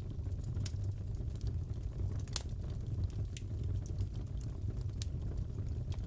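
Wood fire crackling in a fireplace: scattered sharp pops and snaps over a steady low rumble, with one louder pop about two and a half seconds in.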